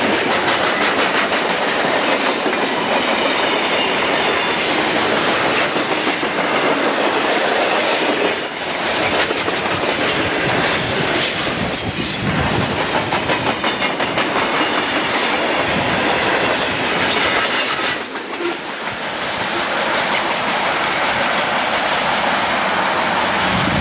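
Freight train cars rolling past close by, wheels clacking steadily over the rail joints with a continuous rumble, and brief high-pitched wheel squeals about halfway through.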